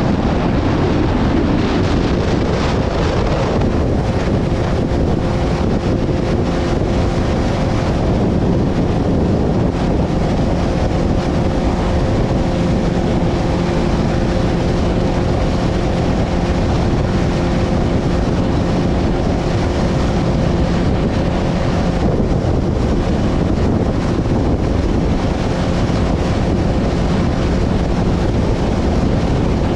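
Strong wind buffeting the microphone over the steady hum of a boat motor running through choppy water.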